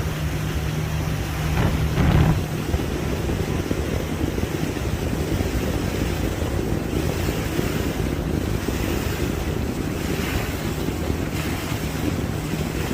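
Tour boat under way: its motor drones steadily beneath wind buffeting the microphone and water rushing past the hull, with a brief louder gust about two seconds in.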